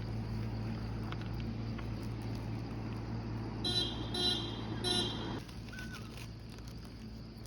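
A vehicle horn honks three times in quick succession about halfway through, over the steady hum of vehicle traffic, which drops away soon after the honks.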